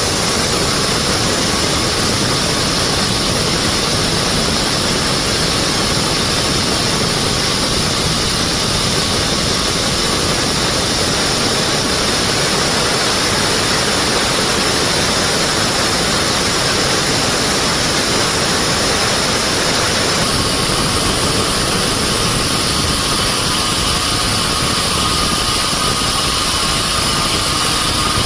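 Band sawmill running loudly and steadily, with high steady whines over a dense machine noise; the tone changes about twenty seconds in.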